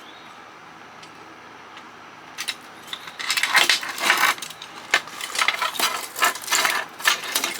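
Metal parts and tools clinking and clattering as a CB radio is taken apart by hand: a quiet start, then from about two seconds in a quick, irregular run of clinks and knocks.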